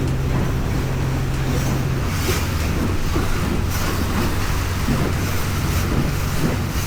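A boat's engine running underway, a steady low hum that drops in pitch about two seconds in, under heavy wind rush on the microphone and the wash of water along the hull.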